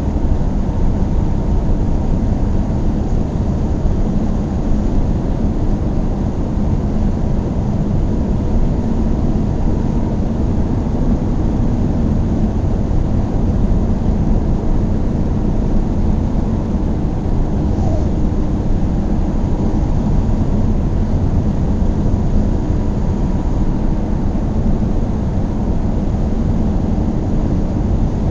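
Car driving at a steady speed: an even, low rumble of engine and tyres on the road that holds unchanged throughout.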